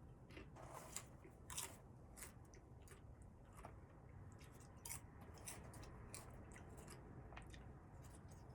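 Faint crunchy chewing: scattered soft crunches and clicks of someone eating.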